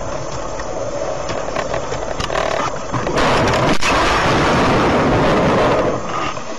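Car road and engine noise. About three seconds in, a louder rushing noise rises and lasts nearly three seconds, with one sharp bang in the middle of it.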